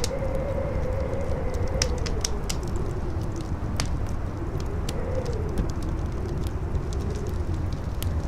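Campfire crackling, with sharp pops scattered irregularly through it, over strong wind that rumbles low and howls in a tone that slowly rises and falls.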